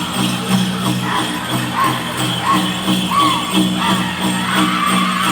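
Powwow drum group singing a chicken dance song in high voices over a steady pounding big-drum beat, with the jingling of dancers' ankle bells.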